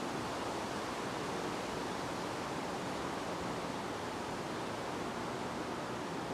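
Wind blowing, a steady, even rush with no gusts or breaks.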